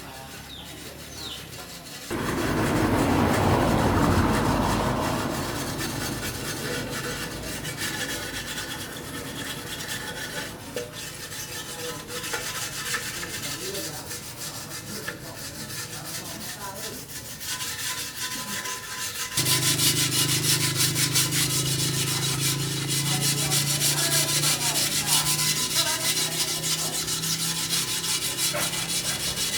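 Abrasive rubbing and sanding during the restoration of an old air compressor. About two-thirds of the way through, a steady motor-driven power tool starts and keeps running.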